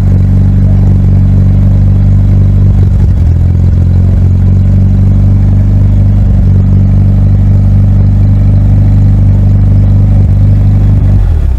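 A vehicle engine running steadily, loud and close by, with a slight shift in its note about three seconds in; it cuts off near the end.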